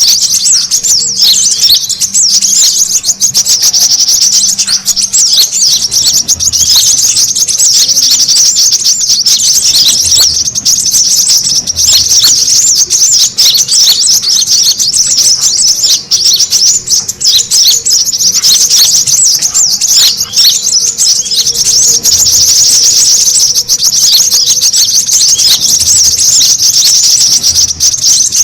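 A dense, unbroken chorus of rapid, high chirps and twitters from many brown-throated sunbirds calling at once: the excited, noisy calling used as a lure to draw other birds in.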